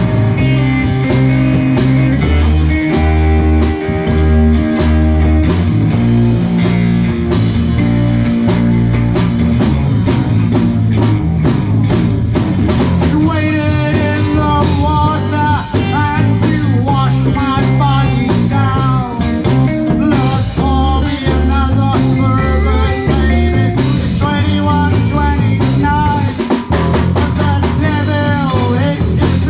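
Live rock band playing an instrumental passage: drums, bass and electric guitar. From about halfway through, a lead guitar line comes in on top, bending up and down in pitch.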